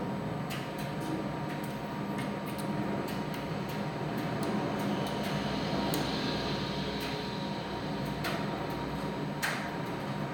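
Primus tumble dryer running: a steady hum with a faint steady whine, and light irregular clicks and ticks from inside the turning drum.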